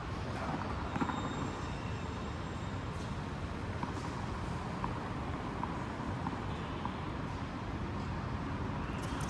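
Steady background noise of a hall, with a few faint short ticks scattered through it.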